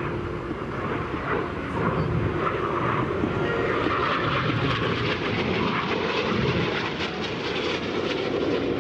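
Jet noise from Red Arrows BAE Hawk T1 trainers, each with a single Rolls-Royce Turbomeca Adour turbofan, flying a crossing manoeuvre; a steady rushing roar that grows a little louder about two seconds in.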